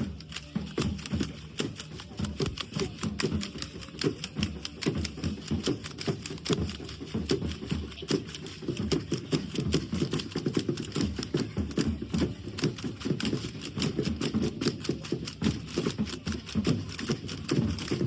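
Rapid, dense clattering and tapping over steady low thuds: the rhythmic stamping and percussion of a Tlaxcalteca folk dance.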